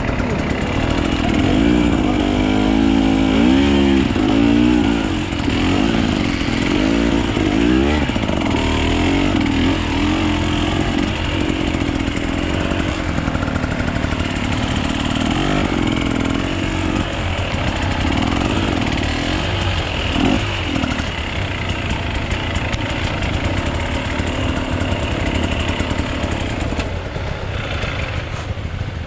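Off-road dirt bike engine being ridden, its revs rising and falling over and over, most sharply in the first several seconds.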